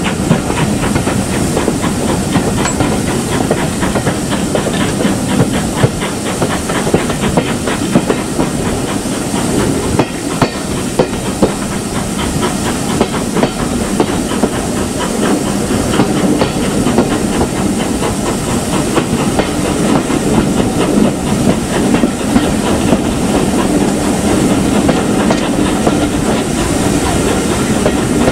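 Steam locomotive and its train running close by: a loud, steady hiss of steam with frequent sharp clicks from the wheels on the rails.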